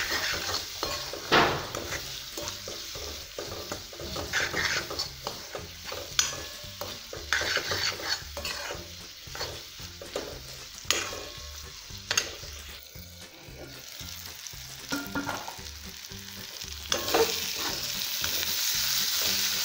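Steel spoon stirring and scraping spiced bean seeds, tomato and onion around a metal kadai, with irregular clinks against the pan over a light sizzle of the masala frying. The sizzle becomes louder and steadier near the end.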